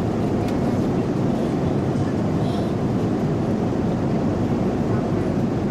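Steady roar of an Airbus A330-300's passenger cabin in flight: even engine and airflow noise, heaviest in the low range, with no change in level.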